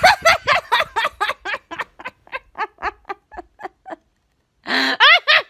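A girl's high-pitched giggling laugh: a rapid run of short giggles, about five a second, fading over about four seconds. Then comes a sharp gasping inhale and a fresh loud burst of giggles near the end.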